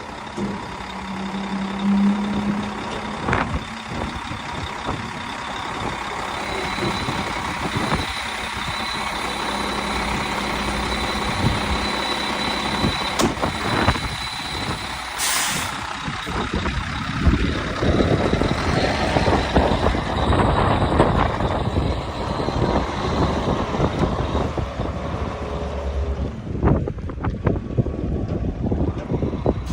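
2007 Volvo VHD dump truck's 435 hp Volvo diesel engine running steadily, with a steady high whine through the middle and a short burst of air hiss about fifteen seconds in.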